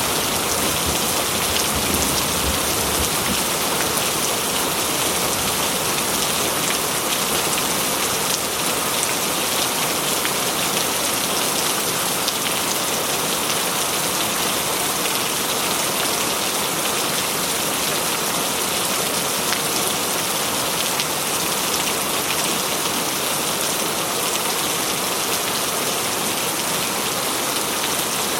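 Heavy rain drumming steadily on a corrugated zinc roof, a dense, even patter of drops. The tail of a thunder rumble dies away in the first second.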